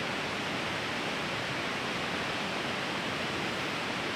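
Steady rushing of a fast, fast-flowing river.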